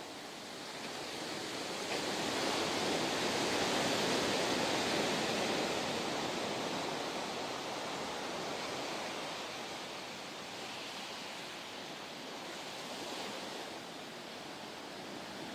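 Ocean surf: a wave breaks and washes in, swelling about two seconds in and easing off over the next several seconds, with a smaller swell near the end.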